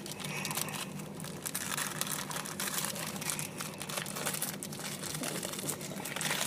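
Plastic wrapper of a Kinder Bueno dark chocolate bar being crinkled and torn open, an irregular run of crackles and rustles.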